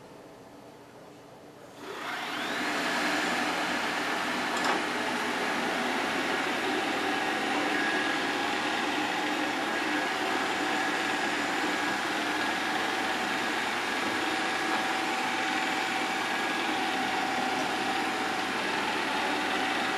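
Shark Matrix robot vacuum starting up about two seconds in and then running steadily, a constant whir with a few faint high tones.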